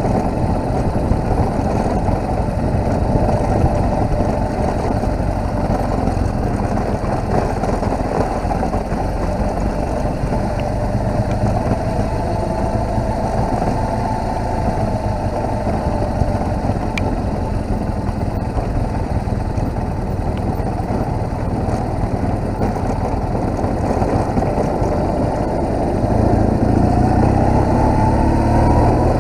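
BMW R1200GS boxer-twin engine running while the motorcycle is ridden at a fairly steady pace. About 26 seconds in, the revs rise and it gets louder as the bike accelerates.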